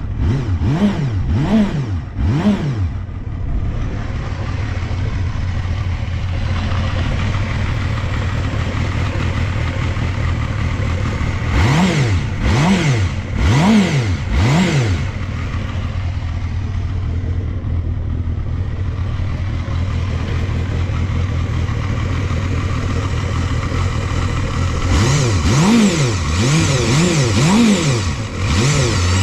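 Honda Jade 250's liquid-cooled inline-four engine idling, blipped on the throttle in short rising-and-falling revs: a few at the start, four more about halfway, and a quicker run near the end. It runs evenly with no abnormal noise, which the seller takes as a sign the engine is in top condition.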